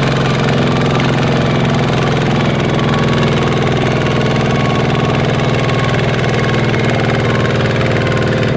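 Small Kubota tractor engine running steadily and loud at a constant speed, with no change in pitch.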